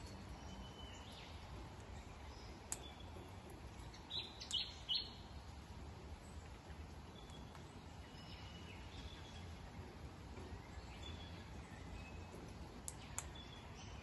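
Birds chirping: scattered short, high chirps over steady outdoor background noise, with a louder run of three quick calls about four to five seconds in. A few sharp clicks sound, one near three seconds and two close together near the end.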